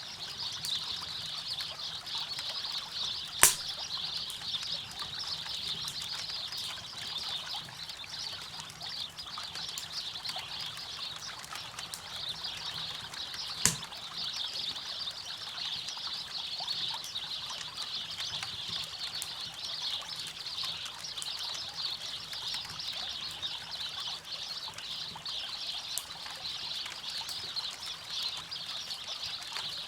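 Campfire crackling steadily, with two sharp louder pops, one a few seconds in and another about ten seconds later, over the steady rush of flowing river water.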